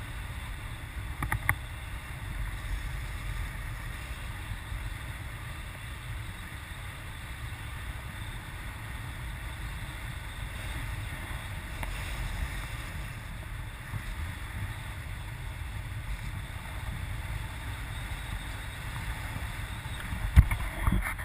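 Wind buffeting the microphone outdoors as a steady low rumble, with a couple of brief knocks, one about a second and a half in and one near the end.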